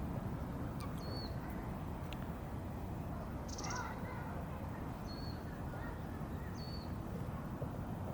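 A few short, high bird chirps and one buzzy call over a steady low background rumble.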